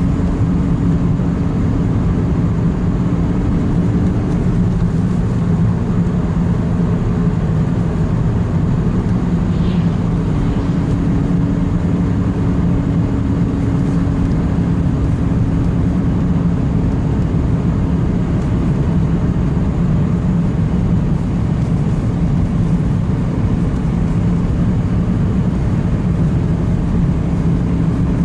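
Steady car running noise heard from inside the cabin while driving: a continuous low engine hum under even road noise.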